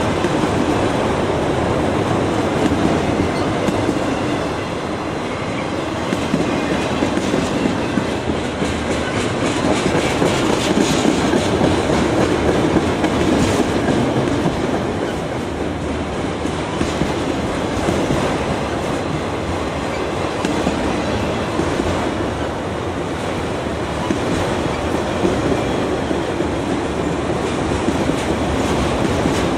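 A train rolling past, its wheels making a steady rolling noise with repeated clicks over the rail joints.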